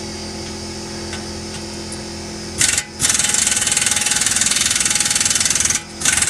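A steady machine hum, then about two and a half seconds in an air impact wrench hammers in a long rapid burst. It stops briefly near the end and starts again, driving the exhaust spring nuts onto their bolts.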